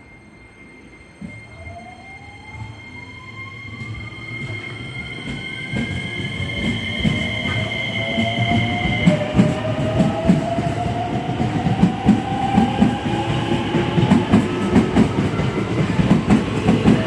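Electric train coming up through the station, getting steadily louder. Its traction-motor whine rises in pitch, and wheel clatter over the rail joints grows dense in the second half. Steady high tones sound until about nine seconds in.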